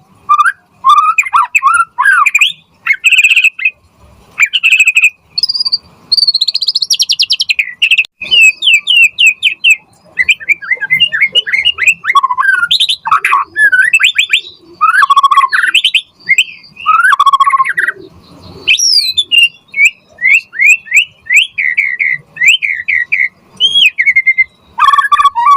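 White-rumped shama (murai batu) singing loudly and without pause: a fast, varied string of whistles, trills and chattering phrases, with runs of short downward-sliding notes.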